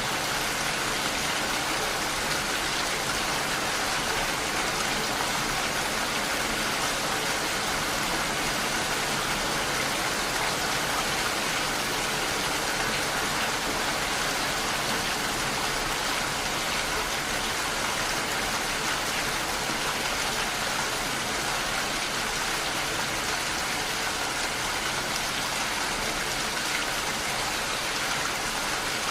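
Steady rain falling, an even hiss of many drops with no pauses or single loud events.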